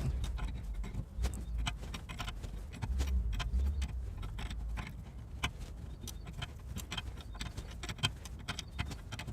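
Steel wrenches clinking and knocking against a car's steering tie rod and its lock nut while the nut is worked back into place: irregular sharp metallic clicks over a low rumble.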